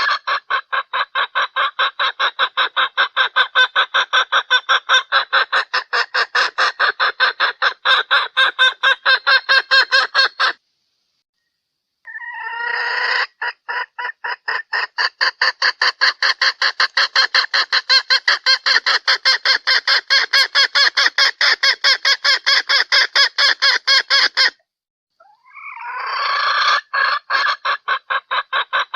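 Junglefowl hen lure call: bouts of rapid, evenly spaced clucking, about five a second, each opened by a longer drawn-out call, with a dead-silent gap between bouts about 11 s and 25 s in. It is the hen's call used to lure junglefowl cocks.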